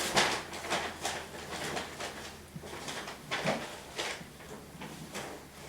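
A knife blade being drawn in repeated sharpening strokes, quick and close together for about two seconds, then slower and further apart.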